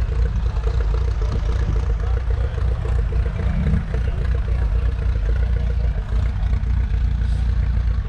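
5.9-litre six-cylinder diesel engine of a converted 1953 Ferguson TEF20 tractor running under steady load during a pull: a continuous low drone.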